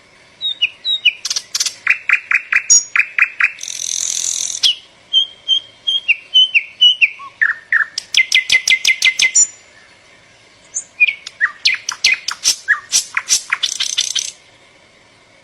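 A small songbird singing two long, varied phrases of quick chirps, whistled notes and rapid trills, with a short pause between them.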